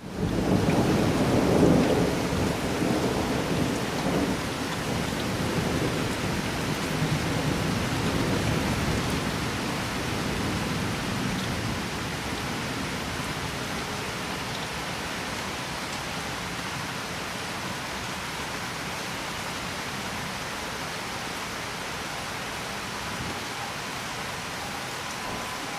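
Steady rain with a long rumble of thunder, loudest in the first couple of seconds and dying away over about ten seconds.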